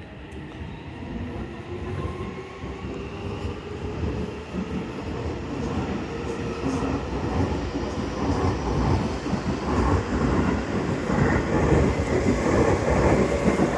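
Seibu Railway electric train running and growing steadily louder as it comes closer. In the first few seconds a faint whine rises in pitch, and in the second half wheel and rail-joint clatter builds over a heavy rumble.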